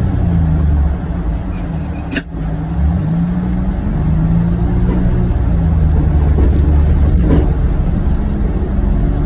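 John Deere Gator XUV835M utility vehicle's engine running under load while plowing, heard from inside the cab, its note rising and falling. A single sharp click about two seconds in.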